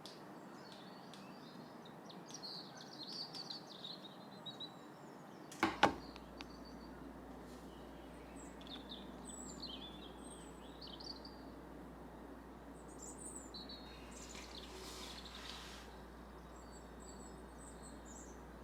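Small birds chirping and twittering in short scattered calls over a steady faint outdoor background noise, with a sharp double knock about six seconds in.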